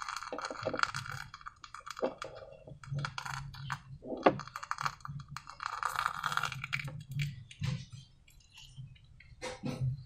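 Hands working slime: an irregular run of small wet clicks, crackles and squishes, with a few sharper pops about 2 and 4 seconds in.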